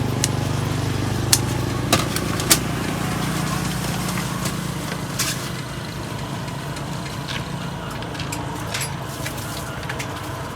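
A small engine running steadily, its hum fading after about four seconds, with a few sharp clicks and knocks scattered through.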